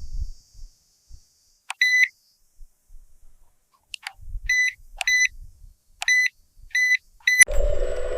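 Six short, high electronic beeps at irregular intervals, some of them after sharp clicks, with low thumps in between. Near the end a steady motor-like hum starts up.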